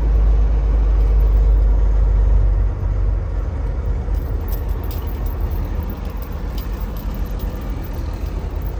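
Semi-truck's diesel engine running, heard inside the cab: a steady low rumble that drops in level about three seconds in.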